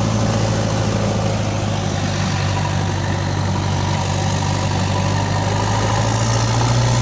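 Toy JCB backhoe running with a steady, engine-like hum that gets a little louder near the end.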